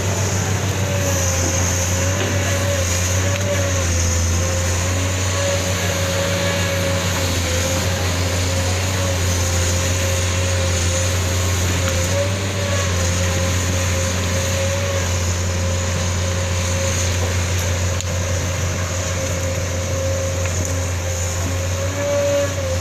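Isuzu 6BG1 six-cylinder diesel engine of a Sunward SWE210 excavator running steadily at constant speed. A steady whine sits above the low engine note.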